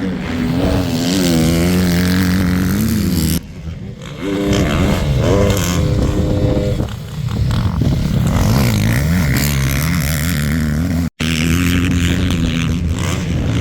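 Motocross bikes racing on a dirt track, their engines revving up and falling away with gear changes as they pass. The sound drops briefly about a third of the way in and cuts out for an instant near the end.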